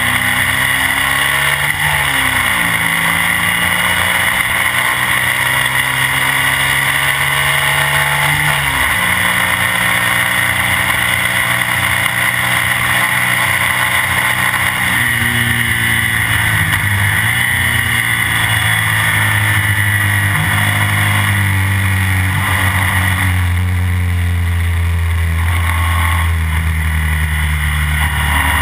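Classic BMW racing sidecar outfit's engine running hard at speed, recorded on board close to the machine. The revs drop sharply and climb again a few times, about two, nine and seventeen seconds in, as it changes gear or slows for corners.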